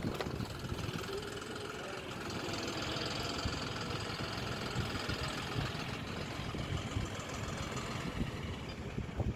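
John Deere 5405 tractor's common-rail diesel engine running steadily.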